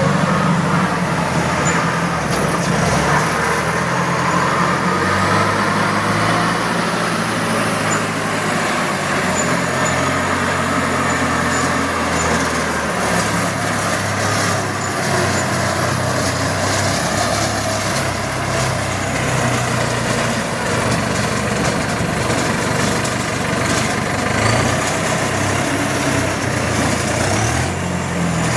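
Heavy vehicle engine running continuously, its pitch shifting up and down as the revs change under load.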